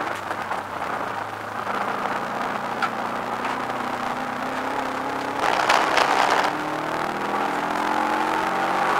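Subaru Impreza WRX's turbocharged flat-four engine heard from inside the cabin at racing speed, its pitch climbing steadily as it pulls through a gear. A louder rushing noise lasts about a second just past halfway.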